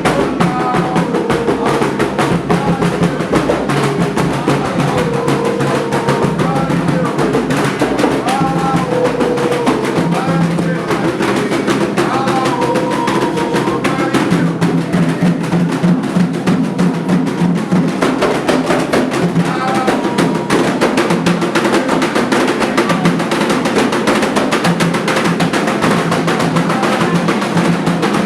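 Candomblé ritual drumming on atabaque hand drums, a dense, unbroken rhythm, with voices singing a chant over it.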